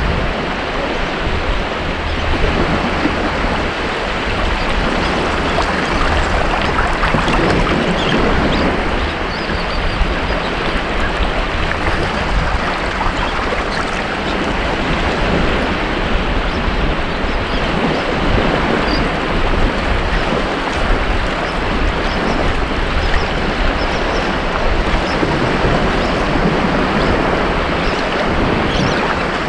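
Ocean surf washing continuously onto a beach, a dense steady rush of waves that swells and eases slightly without a break.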